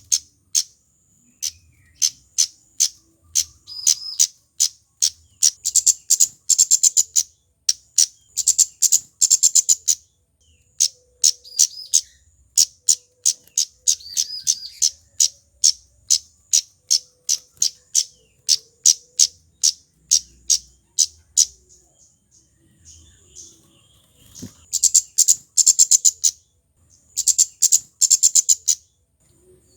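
A male kemade (Javanese flowerpecker) calling: sharp, very high chips a few per second, which speed up several times into fast rattling runs, with a brief quieter lull about two-thirds of the way through.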